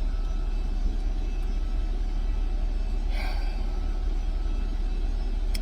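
Steady low rumble, with a brief soft hiss about three seconds in and a faint click near the end.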